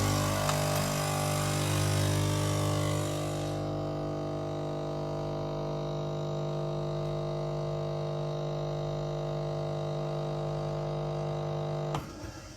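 Nespresso Gran Lattissima capsule machine's pump running with a steady hum, with a hiss over the first three seconds or so. It stops abruptly near the end.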